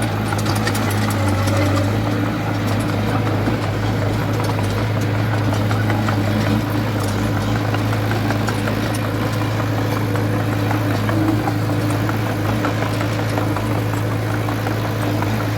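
The diesel engine of a heavy construction machine running steadily at a constant pitch.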